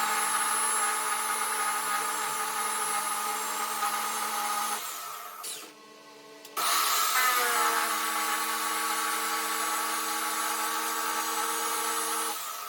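Electric power tool motor running steadily, then winding down and stopping about five seconds in. It starts up again after about a second and a half, runs steadily, and winds down near the end.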